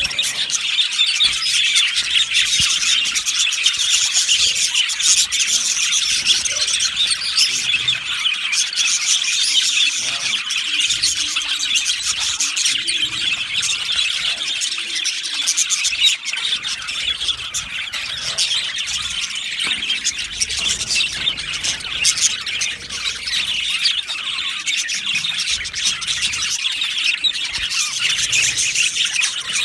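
A colony of budgerigars chattering and chirping continuously, many birds calling over one another in a dense, high-pitched din.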